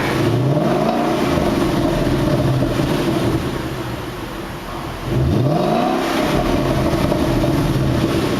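2011 Ford Mustang GT's 5.0-litre V8 revving in place, twice. The engine note climbs just after the start and eases back, then rises sharply again about five seconds in and holds.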